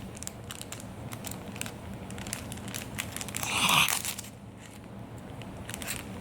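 Crinkling and rustling of a foil My Little Pony blind bag being handled and pulled at to open it, with a brief louder sound about halfway through.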